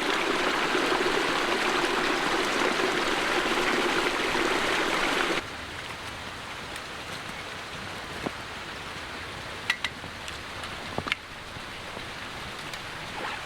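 Small creek flowing, a steady rushing babble of water that cuts off suddenly about five seconds in. Then comes a quieter background with a few faint sharp taps.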